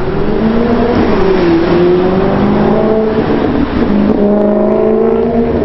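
Car engine running under varying throttle, its pitch rising and falling several times.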